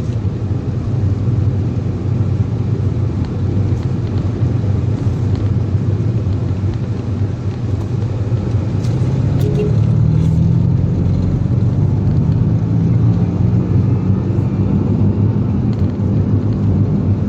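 Car engine and road noise while driving, a steady low drone, with the engine note rising a little about ten seconds in.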